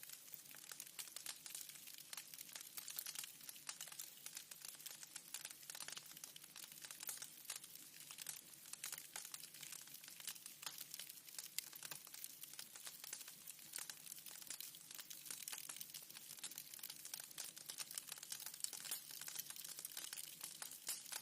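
Fire crackling in a fireplace: a steady stream of small pops and snaps over a soft hiss, with no pauses.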